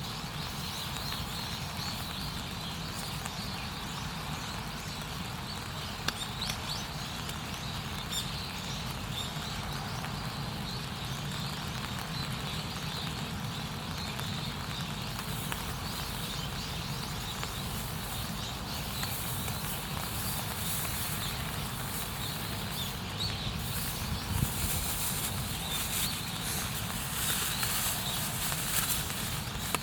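Campfire burning with a steady low rush and hiss, and scattered small crackles that grow a little busier near the end.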